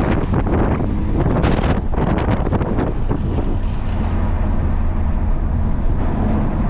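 Car at speed on a racetrack, heard from an onboard camera: a steady low engine drone under heavy wind buffeting on the microphone, with sharper gusts in the first few seconds.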